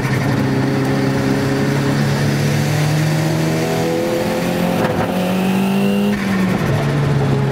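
Nissan Gazelle's turbocharged CA20DET four-cylinder engine under load, heard from inside the cabin, its revs climbing steadily for a few seconds and then dropping quickly about six seconds in before it pulls on at a steady pitch.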